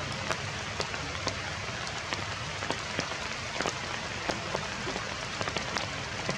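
Heavy rain falling: a steady hiss with many sharp drops striking close by.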